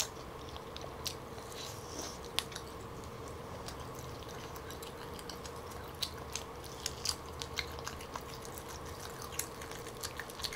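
Close-up chewing of smoked turkey drumstick meat: soft, wet mouth clicks and smacks come at irregular moments and grow more frequent in the second half. A steady faint hum runs underneath.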